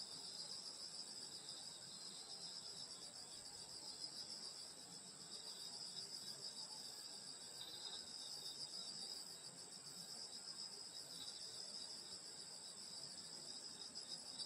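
A chorus of crickets and other grass insects chirring steadily on a summer night, in several overlapping high-pitched trills with a fine rapid pulse.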